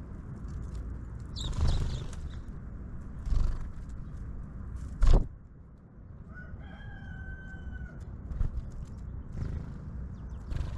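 A few knocks, the loudest about five seconds in, then a single drawn-out bird call held on one pitch for about a second and a half, over a steady low rumble.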